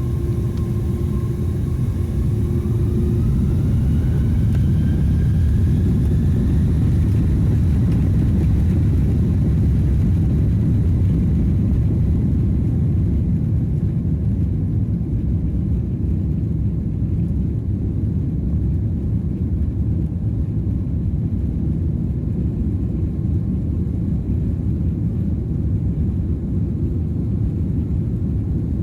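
Jet airliner on its takeoff roll, heard from inside the cabin. The engines spool up to takeoff thrust with a rising whine over the first several seconds, then a steady, loud low rumble of engines and wheels on the runway carries on as the plane accelerates.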